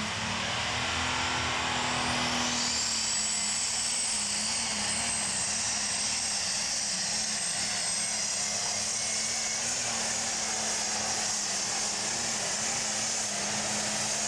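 Turbocharged diesel super stock pulling tractor running flat out under load, its turbocharger whine rising about two seconds in, then holding high and steady over the steady engine note.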